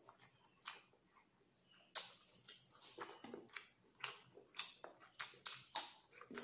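Wet chewing and lip smacks from a man eating chicken liver curry and rice by hand. A few soft clicks come first, then a sharp smack about two seconds in, followed by quick clicks roughly twice a second.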